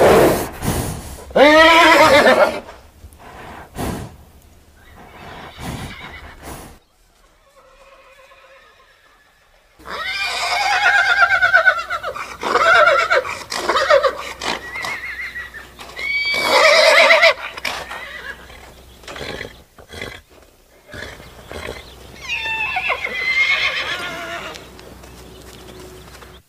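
Horses neighing: about half a dozen loud, quavering whinnies one after another, with a quieter gap in the middle. The background changes abruptly between calls.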